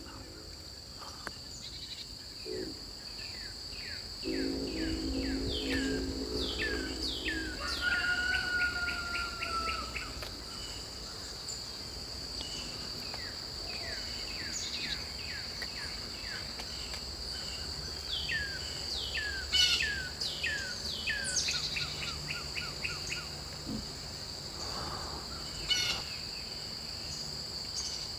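Outdoor ambience: insects, crickets by their sound, drone steadily at a high pitch while a songbird sings twice, each song a run of quick down-slurred notes that speeds up into a trill.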